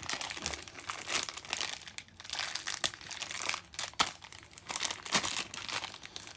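Plastic sweet packet crinkling and crackling as it is handled and pulled open, with irregular sharp crackles.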